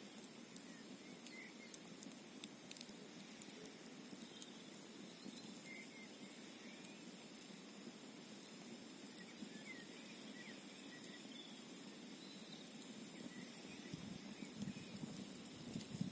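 Campfire crackling faintly, with occasional sharp pops, over a steady rushing background of wind and a flowing mountain stream. Faint short chirps come and go.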